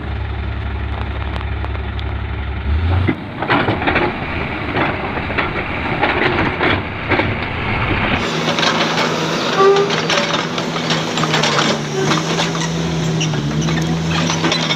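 Heavy diesel machinery running, with a stretch of knocking and clatter in the middle. The sound changes abruptly about three seconds in and again about halfway through.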